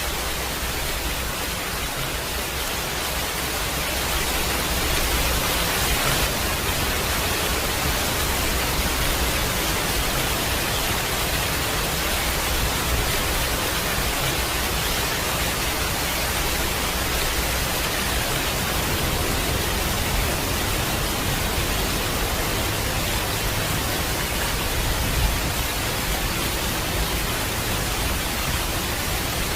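Heavy rain falling steadily, a dense, even hiss of downpour that grows slightly louder about four seconds in.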